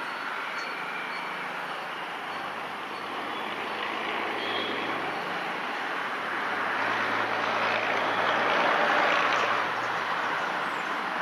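WAG-5 electric locomotive and its train approaching and accelerating: a steady running rumble with a low hum, growing louder from a few seconds in to a peak near the end.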